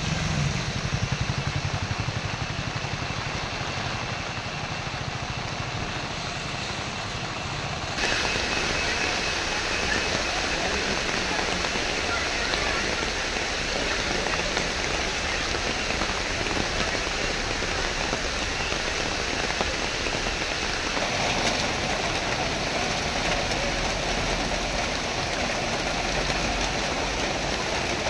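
Steady rain falling, an even hiss of rain on the ground. About eight seconds in it cuts abruptly to louder, brighter rain. A low vehicle hum dies away in the first second.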